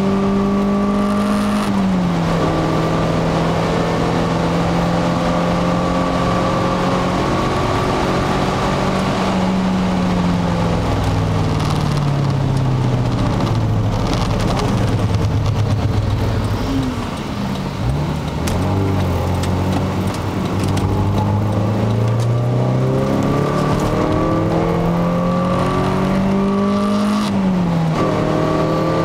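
Peugeot 306 XSi's four-cylinder engine heard from inside the cabin while lapping a race track. The revs drop suddenly on an upshift about two seconds in, hold steady, then sink slowly until a brief dip in loudness past the middle as the car slows and shifts down. They then climb steadily through the gear and drop again on another upshift near the end, with road and wind noise underneath throughout.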